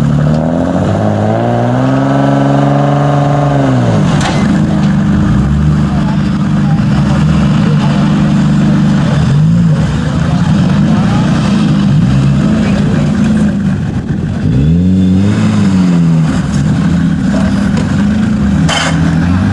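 Suzuki Samurai off-road trial car's engine revving up and down under load as it climbs a steep dirt slope. There is one long rise and fall of the revs about two to four seconds in, and shorter swells later, several of them near the end.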